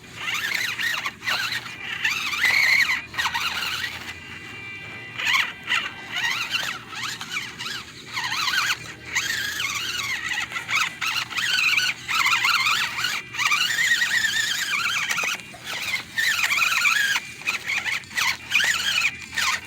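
A 1/24-scale RC crawler's small electric motor and gearbox whining as it crawls over rocks. The pitch rises and falls with the throttle, with short pauses between pushes.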